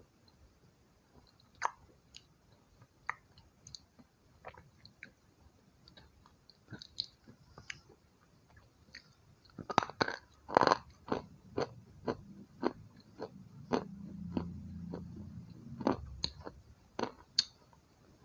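Close-up chewing and crunching of white slate pencil: scattered single crunches at first, then a run of loud, quick crunches from about ten seconds in that fades toward the end.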